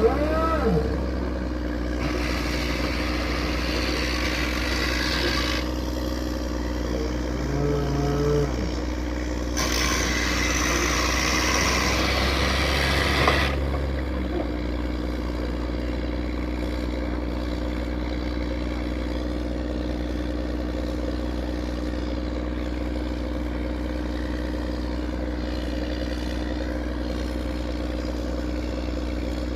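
Drilling machine running with a steady engine drone, twice broken by several seconds of louder rushing, grinding noise.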